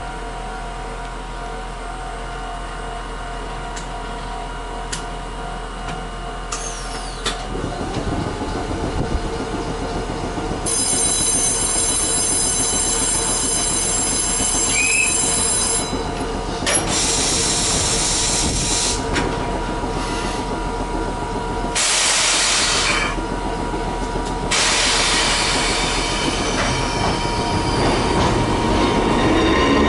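Kotoden 300, a 1926 electric car with nose-suspended traction motors, heard from inside the car. It hums steadily at first, then about eight seconds in gets louder as it begins to run along the rails. Near the end a motor whine rises in pitch as the car accelerates.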